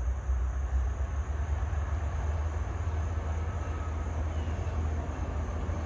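Low, steady rumble of an approaching New Jersey Transit locomotive-hauled commuter train, still some way off down the line.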